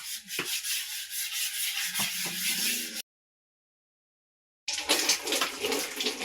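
Rapid rubbing scrubbing strokes, with a dry scratchy sound. It cuts out completely for under two seconds about three seconds in, then resumes.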